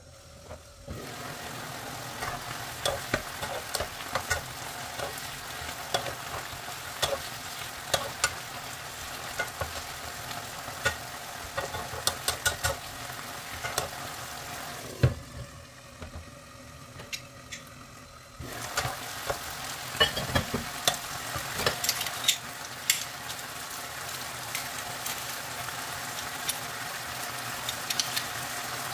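Chicken breast pieces frying in a pan: a steady sizzle with frequent sharp spitting pops. It goes quieter for a few seconds a little past the middle.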